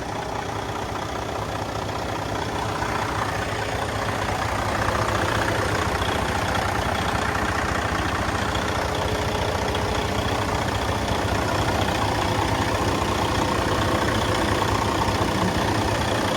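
Heavy-duty diesel engine of a Western Star 4900 truck idling steadily, a little louder from about four seconds in. It runs without trouble and shows no blow-by, by the seller's check.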